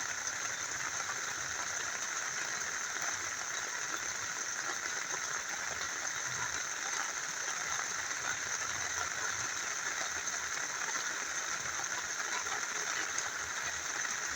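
Rain falling with a small river flowing, an even, unbroken hiss of water.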